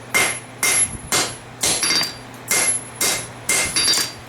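Hand hammer striking a hot steel blade forged from a farrier rasp on an anvil, about two blows a second, each with a short metallic ring, while the back of the blade is drawn down for length. A steady low hum runs underneath.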